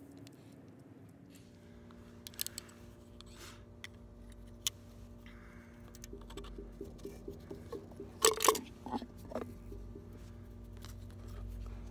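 Light clicks and knocks of backflow preventer parts being handled and fitted together by hand, with the loudest cluster of knocks about two-thirds in, over a faint steady hum.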